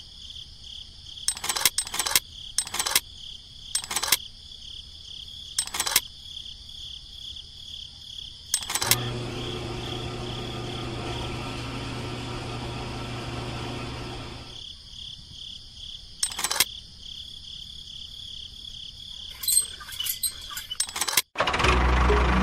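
Steady cricket chirring, with scattered sharp clicks. A low humming noise comes in for several seconds in the middle. Near the end it cuts off abruptly to music.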